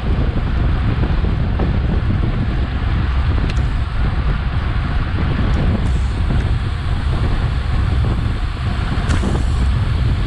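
Steady wind buffeting the microphone of a Garmin VIRB action camera on a bicycle moving at race speed, with a few faint ticks.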